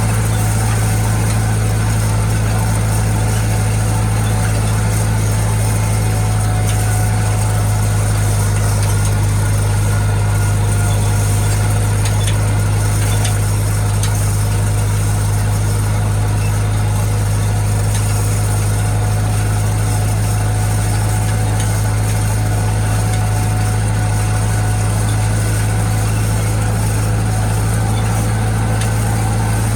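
International Harvester tractor engine running at a steady, unchanging speed, a loud constant low drone.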